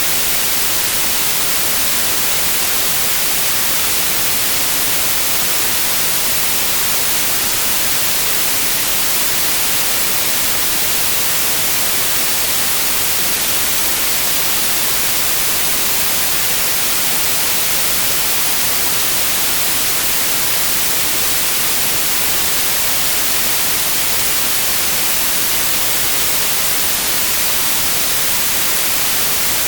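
Steady white noise: an even, unchanging hiss across the whole range, brightest in the treble.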